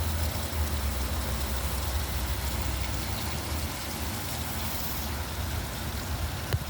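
Steady rain hiss with the low rumble of a vehicle engine in traffic, the rumble fading over the first few seconds. A single sharp tap near the end.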